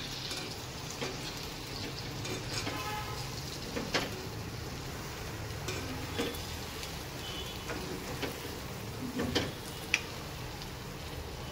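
Chicken masala sizzling in its gravy in a wok as a metal ladle stirs it, with a few sharp clicks of the ladle against the pan.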